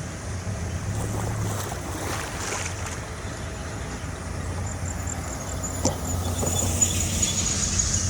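An engine running steadily, with a few sharp knocks and a high pulsing tone in the second half.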